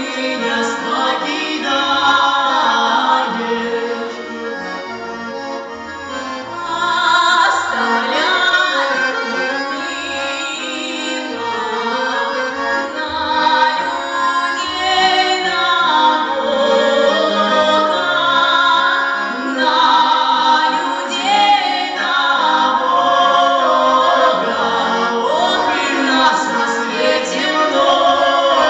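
Vocal music: a song sung with instrumental accompaniment, the voice held in long wavering notes.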